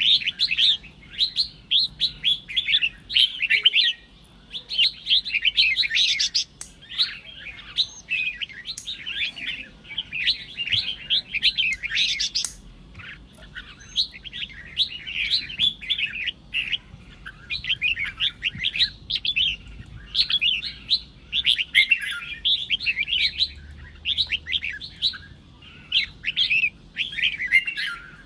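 Red-whiskered bulbul singing: quick, warbling chirpy phrases, one after another with short pauses between them.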